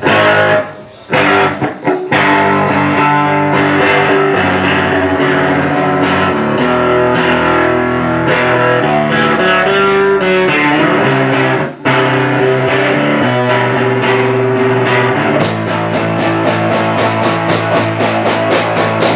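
Live rock band playing an instrumental intro on distorted electric guitars and bass, with a couple of short stops near the start and a brief break about twelve seconds in. A fast, even beat comes in near the end.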